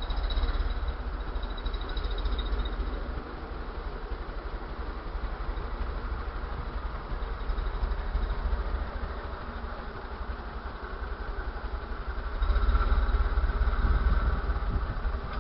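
A vehicle engine idling, a low steady rumble. It grows louder for a couple of seconds about twelve seconds in.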